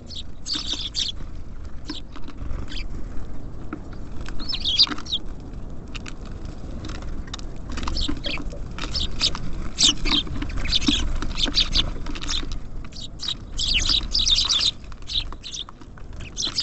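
Small birds at a feeder: a rapid scatter of short, high chirps and calls mixed with quick tapping, which gets busier in the second half.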